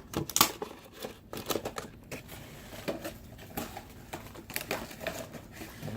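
A die-cast model car and its plastic packaging being handled: a string of short clicks, taps and crinkles as the pieces are fitted back together.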